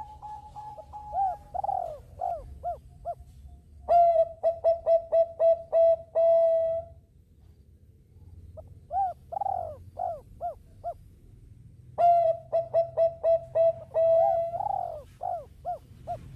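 Zebra dove (perkutut) singing its cooing song: a quick run of short notes followed by a series of arching, bouncing coos, repeated in two phrases with a pause of about two seconds between them.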